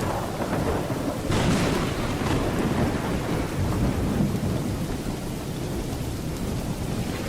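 Thunderstorm: steady heavy rain with low rolling thunder. A little over a second in, a sharper, brighter burst of noise comes in and fades over the next second or so.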